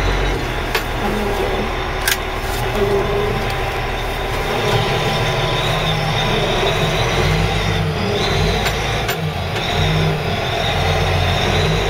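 Caterpillar 980G wheel loader's diesel engine running steadily as the machine is driven, with a few sharp clicks or knocks scattered through.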